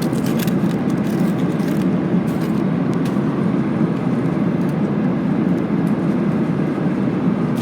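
Boeing 737-800 cabin noise in cruise: the steady, even rush of its CFM56 engines and the airflow past the fuselage, strongest low down, with no change in level.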